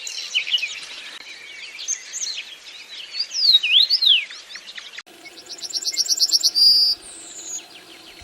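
Wild birds calling, with many overlapping chirps and quick sweeping whistles. About five seconds in, the sound cuts abruptly to a single fast, evenly repeated trill, with a steady low hum behind it.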